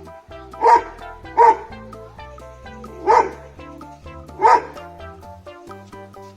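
Bullmastiff barking four times: two barks close together, a pause, then two more, over background music.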